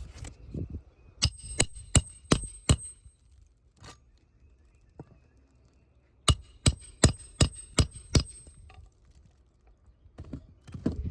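Hammer driving roofing nails back into asphalt shingles: a run of five quick, ringing strikes, a pause of a few seconds, then six more, about three a second.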